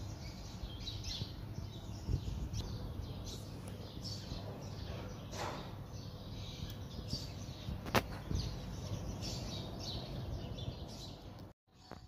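Small birds chirping in short, repeated calls over a steady low outdoor rumble, with one sharp click about eight seconds in. The sound cuts off just before the end.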